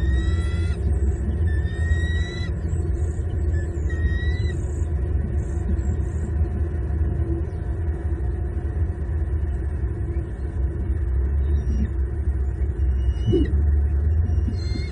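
Bald eagle calls: a few series of thin, high, rising whistled notes near the start, around four seconds in and again at the end, over a steady low rumble.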